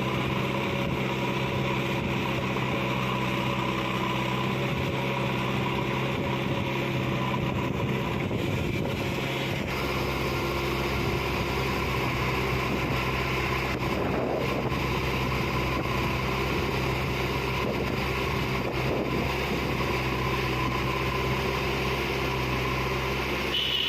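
Heavy diesel engine of a digger or tractor running steadily, its note changing about ten seconds in as a deeper rumble sets in.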